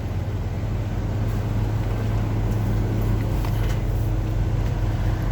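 Semi truck's engine idling, heard from inside the cab: a steady low hum.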